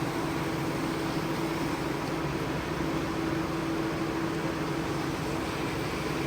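A carpet-cleaning machine's motor running steadily: a constant hum over an even rushing hiss.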